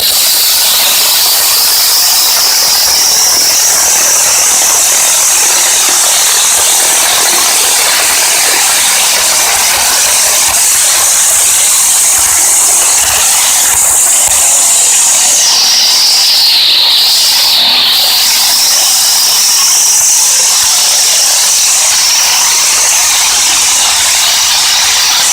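Murray garden tractor pulling the weight sled under full load, with a loud, high-pitched whine that holds steady for most of the run. About two-thirds of the way through, the whine dips in pitch and then recovers.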